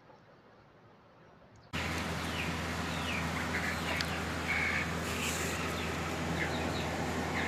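Quiet for the first couple of seconds. Then a steady hiss and low hum start abruptly, with short, high bird chirps and a few quick downward-sliding calls scattered over them.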